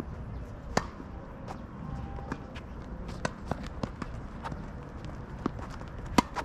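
Tennis rally: sharp knocks of the ball off rackets and the court, the loudest about a second in and near the end, with lighter taps and footsteps on the court between them.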